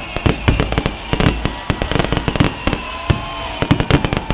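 Fireworks going off in quick, irregular succession: many sharp bangs and crackles, with whistling tones sliding in pitch over them.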